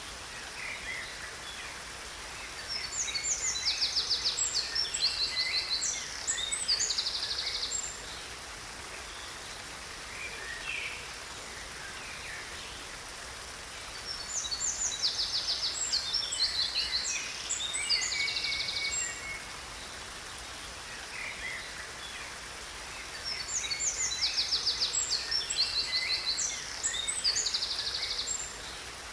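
A songbird singing three long phrases of rapid, high chirps and trills, each lasting about five seconds and repeating about every ten seconds, over a steady rush of falling water.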